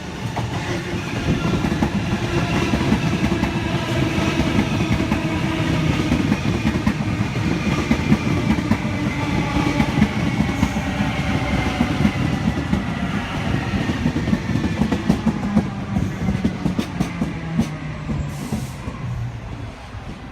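Sydney Trains Waratah (A set) double-deck electric train pulling into the platform, its traction motor whine slowly falling in pitch as it slows over a heavy wheel-on-rail rumble. The sound builds at the start and dies away near the end as the train comes to a stop.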